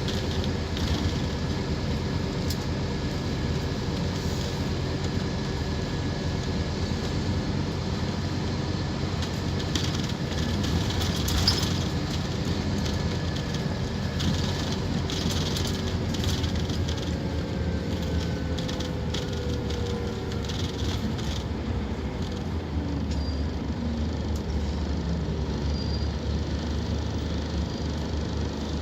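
Scania K230UB Omnilink bus's diesel engine and drivetrain running steadily, with clicks and rattles around the middle. Its whine falls in pitch in the second half as the bus slows.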